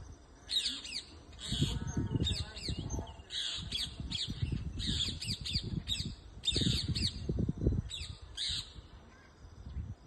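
Parrots squawking in repeated harsh, short bursts, several calls to a cluster, then falling quiet near the end. A low rumble of noise sits underneath.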